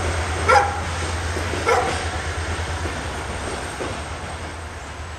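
A departing passenger train's low rumble fading as it pulls away. A dog barks twice in the first two seconds.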